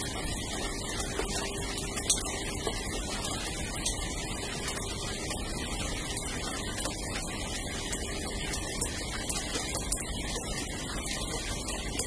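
Steady rain falling on a yard and house, with many scattered sharp ticks of drops hitting nearby surfaces.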